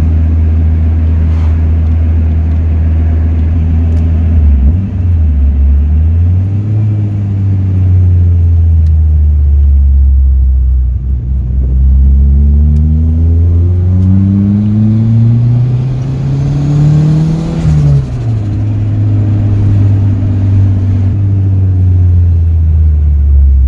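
Turbocharged Honda D16Z6 SOHC four-cylinder engine heard from inside the Civic's cabin while driving: a brief rise and fall in revs about five seconds in, then a steady climb in revs for about seven seconds that drops off suddenly, followed by steady running.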